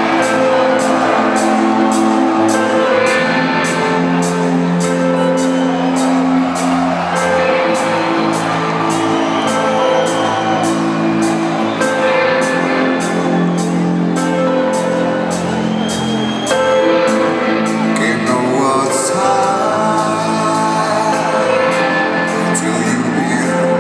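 Live rock band playing in an arena, with a steady ticking beat about twice a second over held low notes, heard from the audience with the hall's echo. Crowd whoops and shouts are mixed in.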